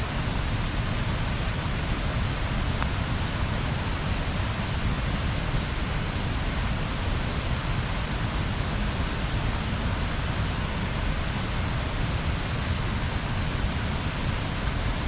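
Bonfire burning: a steady rushing hiss with a fluttering low rumble, and only a faint crackle or two.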